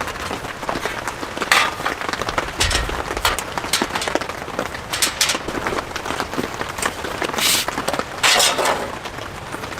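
Heavy rain falling steadily on a surface, with a few louder gusts of rain noise.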